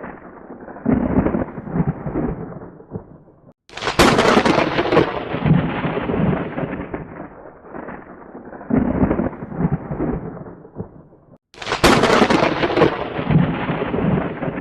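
Thunder: a rolling rumble, then a sharp close thunderclap about four seconds in and another near the end, each dying away into a long, rolling rumble.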